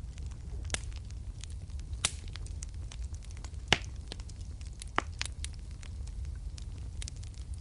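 Wood fire in a fireplace crackling, with scattered sharp pops over a steady low rumble; the loudest pop comes just before the halfway point.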